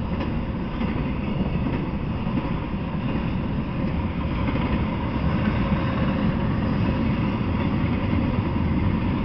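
Intermodal freight train cars rolling steadily past: a continuous low rumble of wheels on the rails.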